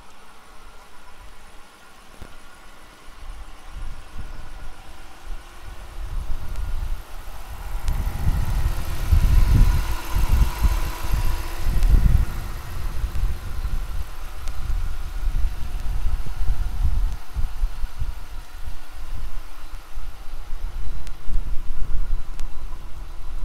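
A Dodge Durango SUV's engine idling steadily. It grows louder for several seconds near the middle, when the microphone passes close over the open engine bay.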